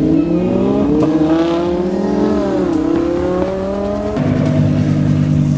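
Twin-turbo Lamborghini Huracán V10 accelerating hard, its pitch rising, dipping briefly at a gear change near the middle and climbing again. About four seconds in, it gives way suddenly to a steady engine drone.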